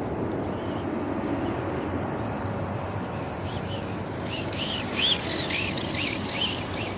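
Small birds chirping in quick series of short, arched high notes, loudest in the second half, over a steady low rumble.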